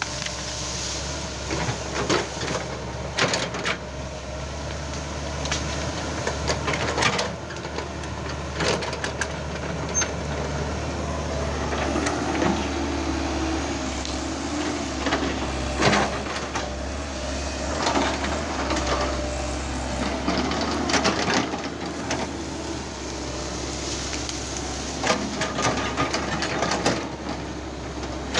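Excavator's diesel engine running steadily under load, with irregular cracks and crashes of wood as felled trees and brush are pushed and piled up during land clearing.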